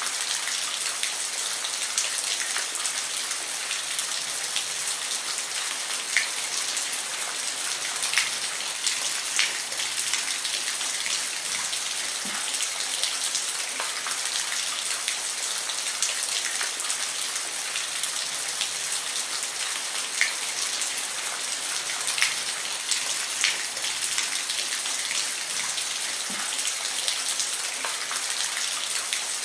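Steady rain falling on a roof, a dense hiss with scattered louder individual drop ticks.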